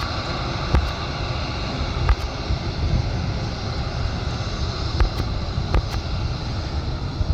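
Airbus A320 jet engines running steadily, with a faint steady whine over a dense roar and wind buffeting the microphone.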